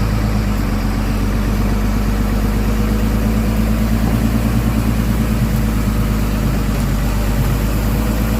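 Heavy truck engine running steadily with a low, even throb.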